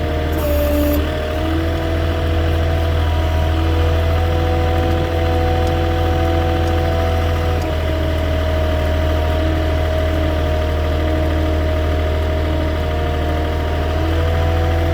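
Moffett truck-mounted forklift's engine running steadily while driving, its pitch dipping briefly about half a second in, with a short hiss at the same moment.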